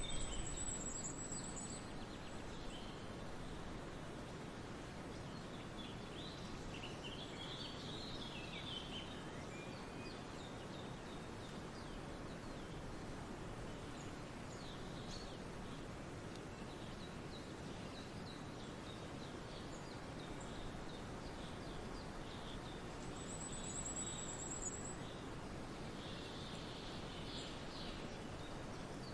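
Forest ambience: scattered songbird chirps and calls over a steady background hiss, with a very high, thin trill twice, near the start and about three-quarters of the way through.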